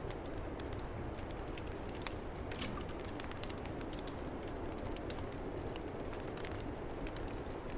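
Wood fire in a fireplace crackling, with scattered sharp pops, over a steady low rush of snowstorm wind.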